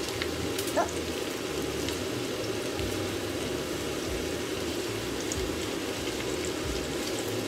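Browned pork and freshly added vegetables sizzling steadily in a hot frying pan as they are stir-fried with a wooden spoon.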